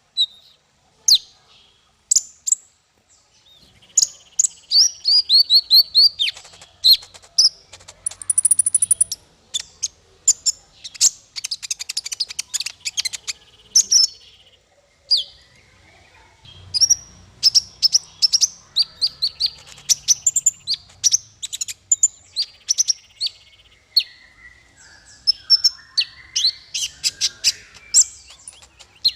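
A songbird singing a rapid, varied string of sharp high chirps, whistled notes and trills, with brief pauses between phrases.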